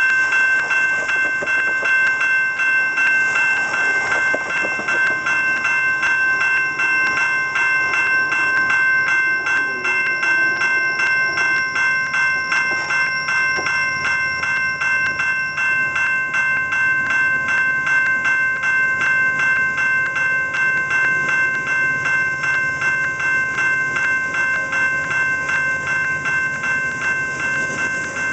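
Railroad crossing warning bell ringing in a fast, even rhythm, over the rumble and wheel noise of a Canadian National freight train passing.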